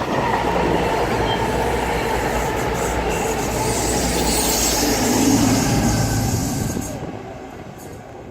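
Class 222 Meridian diesel multiple unit passing non-stop at speed, its underfloor diesel engines and wheels on the rails making a loud rush that fades away about seven seconds in.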